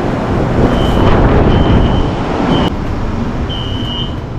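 Loud rumbling vehicle noise with a series of short, high-pitched electronic beeps about four times; the rumble drops off almost three seconds in.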